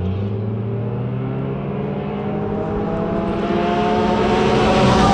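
A car's engine accelerating hard toward the microphone, its pitch climbing steadily as it grows louder.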